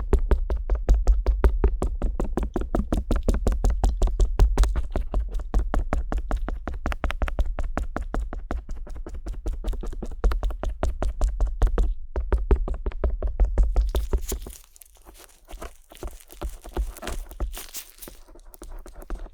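Stainless steel ear pick tapping rapidly and evenly on the ear of a binaural dummy-head microphone, each tap giving a heavy thud close in the ear. About fourteen seconds in the tapping stops and gives way to quieter, irregular scratching and rubbing on the ear.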